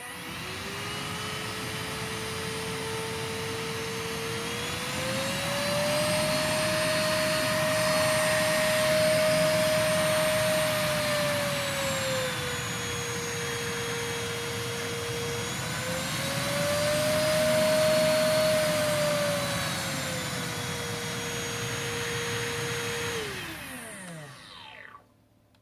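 GeeMo K14 cordless stick vacuum cleaner switched on, its motor whine spinning up quickly and running steadily. The pitch rises to a higher note twice and settles back each time. Near the end it is switched off and the whine falls away as the motor winds down.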